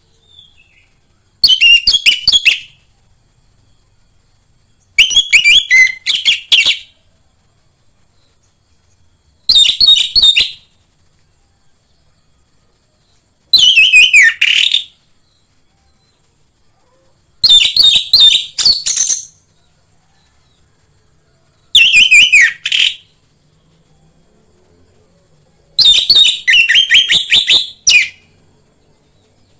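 Orange-headed thrush (anis merah) singing: seven short, loud phrases of rapid high notes, each a second or two long, repeated about every four seconds with pauses between.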